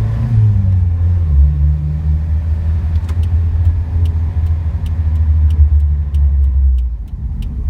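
Toyota Sunrader pickup's engine running, heard from inside the cab as a deep steady hum. The engine note rises about a second in and eases off near the end, with faint regular ticking over it.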